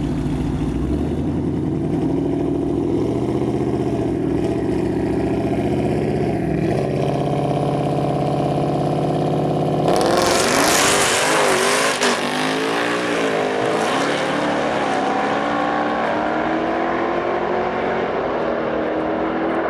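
Drag-racing cars holding at the starting line with engines running, then launching hard about ten seconds in: a sudden loud burst, with the engine pitch climbing and dropping back several times through the gear changes as the cars pull away down the strip.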